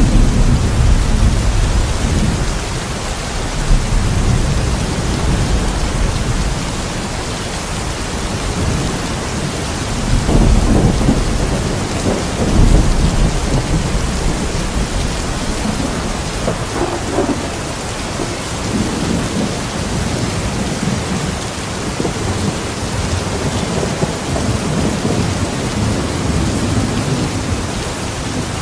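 Steady rain falling outside a window, with low rolls of thunder rumbling under it that swell near the start and again about ten and twelve seconds in.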